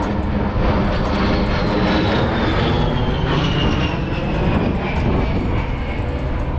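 A-10 Thunderbolt II's twin turbofan engines running loud as the jet flies past. A high whine slides steadily down in pitch over several seconds above a steady rushing rumble.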